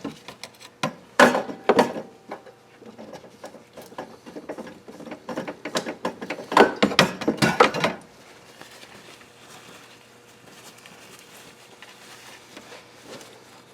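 Small metal parts and tools clinking and scraping in quick clusters as they are handled, loudest about a second in and again from about six to eight seconds, then only faint rustling.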